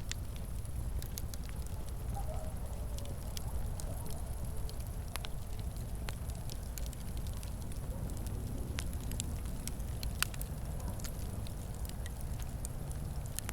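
Fireplace fire crackling: a steady low rumble of flames with irregular sharp snaps and pops, one louder pop about ten seconds in.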